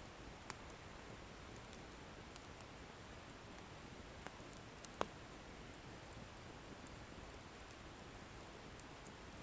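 Wood fire burning with a faint, steady hiss and a few sharp crackles and pops from the burning logs, the loudest about five seconds in.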